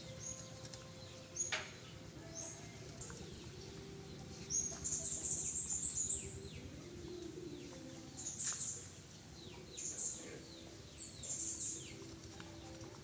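Small birds chirping over and over, many quick high notes that slide downward, with a sharp click about a second and a half in.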